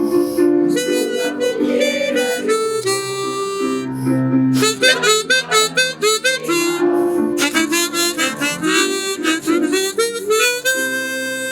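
Harmonica playing a lively melody with chords and sustained notes.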